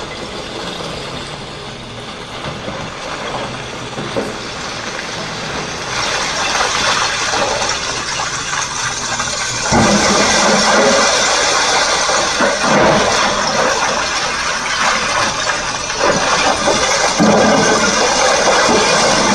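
Heavy diesel machinery engine running, with a loud rushing noise that builds about six seconds in and steps up again near ten seconds.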